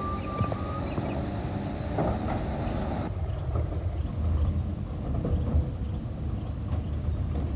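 Garbage truck's diesel engine running, a steady low rumble, with a brief faint hiss and short tones in the first few seconds.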